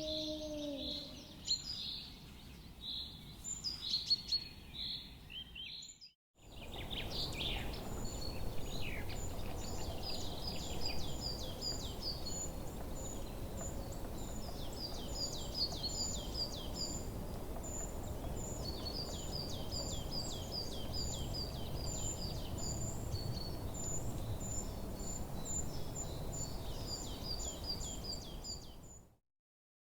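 Wild birds singing and chirping over a steady outdoor background hiss. The sound drops out briefly about six seconds in, and again near the end. After the first break there are rapid, repeated high chirps.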